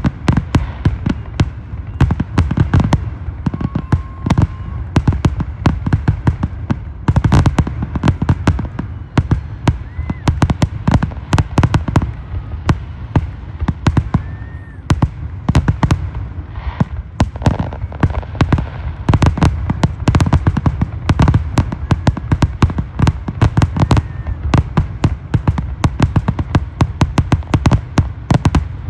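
Fourth of July fireworks show: a continuous barrage of sharp bangs and crackles, several a second, in denser clusters with brief thinner stretches between.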